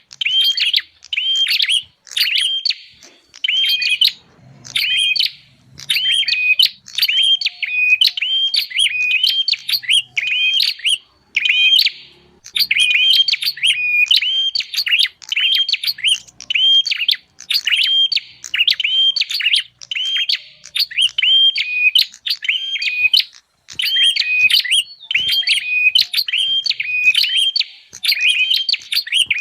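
Prinia (prenjak) calls played as a bird lure: rapid, repeated, high chirping notes in bursts with short gaps.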